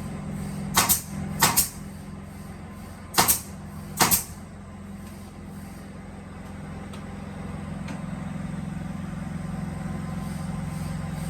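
A machine motor hums steadily, a little louder toward the end. Over it come four sharp knocks in two pairs, about a second in and about three seconds in, as legs are loaded onto the drilling machine.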